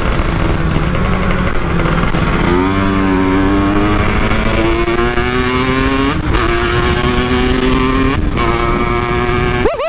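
Two-stroke Kawasaki Ninja 150 engine in a Yamaha RX King frame, breathing through an RX King-style exhaust, running steadily and then accelerating through the gears. The pitch climbs in stretches and drops briefly at each upshift, about six and eight seconds in.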